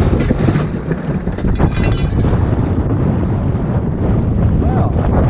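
Strong gusting wind, heavy wind noise blasting the microphone, with some short clattering in the first couple of seconds.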